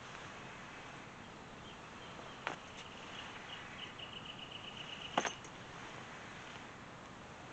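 Quiet outdoor ambience: a steady faint hiss, two sharp clicks, and in the middle a faint, high, rapidly pulsing trill, about nine pulses a second, lasting about two seconds.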